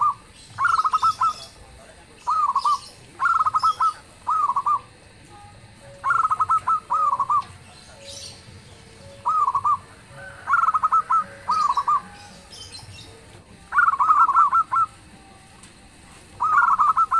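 Zebra dove (perkutut) cooing: a string of loud, rolling, trilled coo phrases, one every second or so, with faint lower notes in between.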